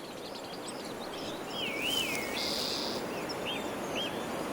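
Spring forest ambience: small birds singing, with a wavy warbled phrase from about a second and a half in, short upslurred whistled notes repeated later, and a brief buzzy trill, all over a steady rushing background.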